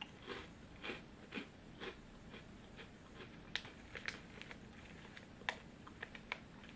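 Chewing pieces of a small chocolate snack, with light crackles from its paper packet being handled: short irregular clicks, closer together in the first couple of seconds and sparser after.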